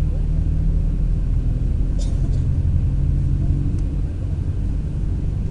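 Long-distance coach bus engine running with a steady low rumble and hum. A brief high click sounds about two seconds in.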